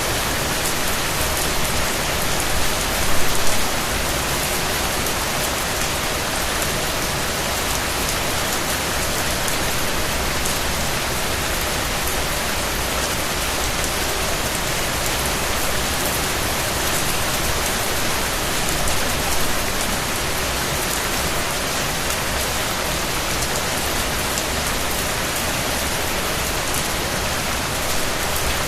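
Steady rain falling, with dense patter of raindrops on surfaces; a brief louder swell about three seconds in.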